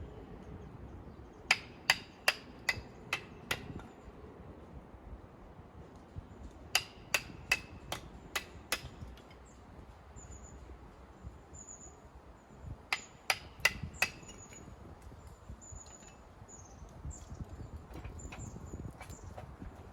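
Hammer blows on metal tent pegs, driving them into the ground, in three runs of sharp ringing strikes at about two or three a second: six, then six, then four.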